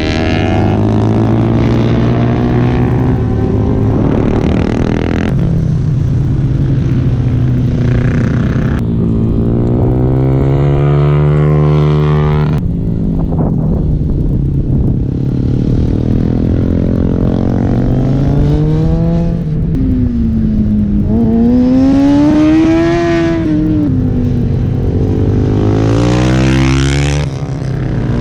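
Sport motorcycle engines at high revs on a race track, their pitch climbing and dropping again and again as they accelerate and shift.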